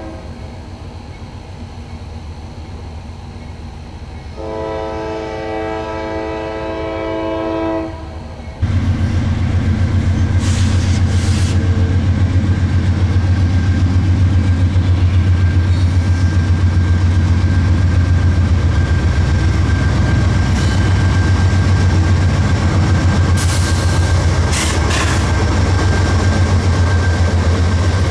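Diesel freight train's air horn sounds one long chord blast. Then the locomotive passes close with a sudden, loud, steady low rumble, and the wheels clank several times.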